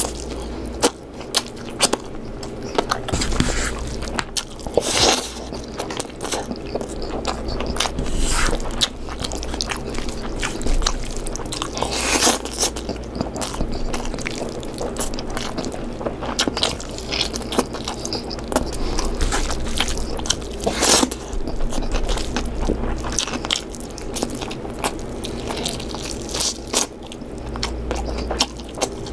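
A person chewing and biting chicken curry close to the microphone, with irregular wet mouth clicks throughout over a low steady hum.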